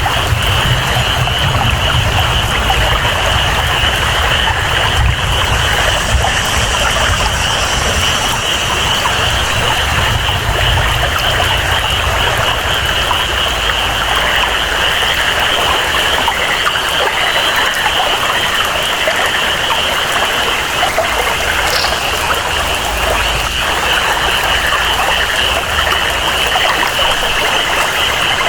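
Tropical rain falling steadily with water flowing, over a constant high-pitched chorus of calling rainforest frogs or insects, and a low rumble that eases about halfway through.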